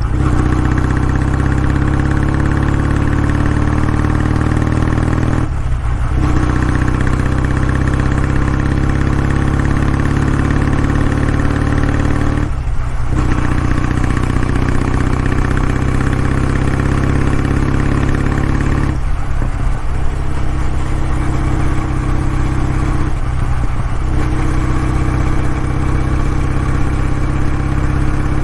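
Kawasaki W650's air-cooled parallel-twin engine and exhaust running steadily under load. The note eases off briefly four times, roughly every five to six seconds, and then picks up again.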